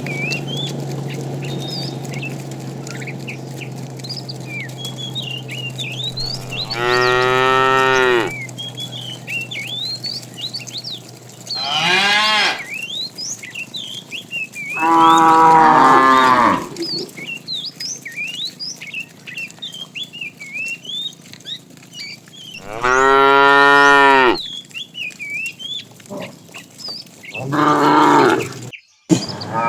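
Cattle mooing: about five long, drawn-out moos a few seconds apart, with small birds chirping throughout. A low steady hum fades out in the first few seconds.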